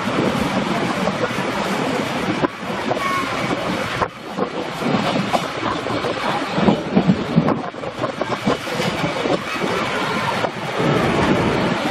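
A passenger train's wheels running on the track, heard through an open side of the car: steady running noise with irregular clacks over the rail joints and wind rushing past. It starts on a steel truss bridge and the sound changes about four seconds in as the train comes onto ordinary track.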